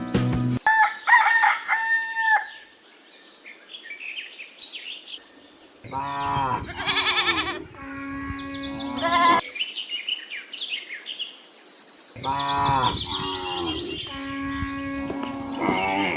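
Farmyard sounds: a rooster crowing in two long calls, with small birds chirping around them.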